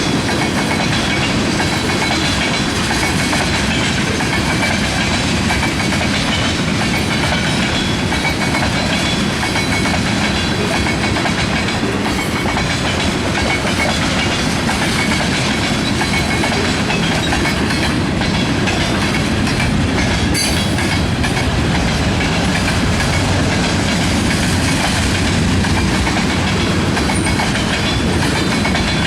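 Freight cars of a Canadian National manifest train rolling steadily past at close range: a loud, continuous rumble and rattle of steel wheels on rail.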